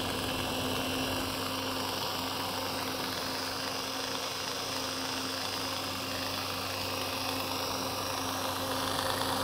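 Home-built electric fan running steadily with its new motor set to about 70% speed: a steady hum of the motor under the rush of air from the spinning blades.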